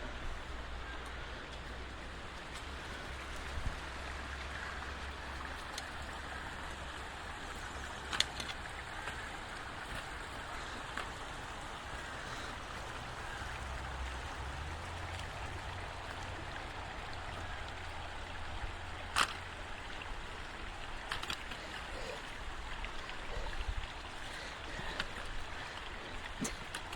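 Steady rushing of flowing water, with a low rumble underneath and a few sharp clicks.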